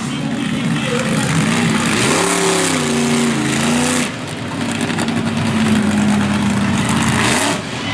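Monster truck engine revving up and down, then held high for a few seconds in the second half before dropping off near the end.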